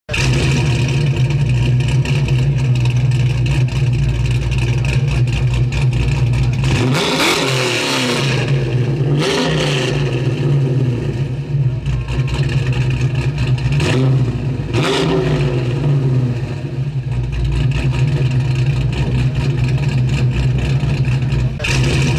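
Car engine sound laid under an animated intro: a steady low engine rumble with several quick pass-by whooshes that fall in pitch, at about seven, nine, fourteen and fifteen seconds in, and another just before the end.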